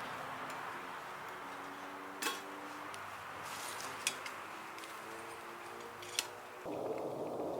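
Three light clicks or taps, about two seconds apart, over a faint steady hiss with soft held tones. Near the end the sound cuts suddenly to a louder rushing noise.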